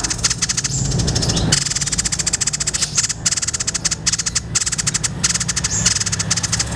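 White-chested babbler (tepus dada putih) singing a long, fast rattling chatter of high, clicky repeated notes, with a brief break about a second in, over a steady low hum.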